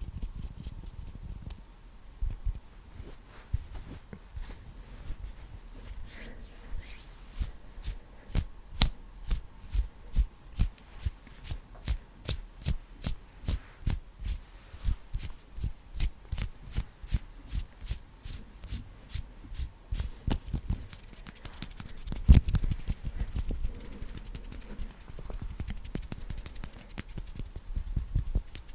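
Bare hands making close-miked ASMR hand sounds: a steady run of sharp taps about twice a second. Near the end comes one louder hit, then faster, denser rubbing.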